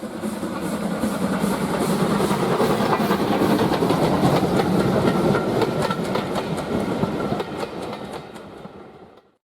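A train on the heritage railway passing close by, its wheels clattering over the rail joints in a dense run of clicks; the sound swells, holds, then dies away near the end.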